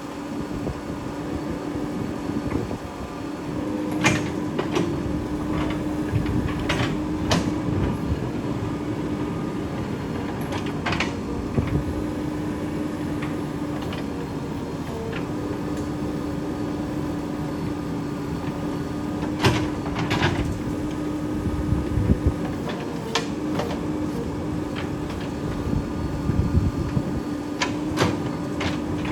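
JCB 3DX backhoe loader's diesel engine running steadily under working load, with scattered sharp metallic clanks and knocks from the bucket and linkage as it levels ground.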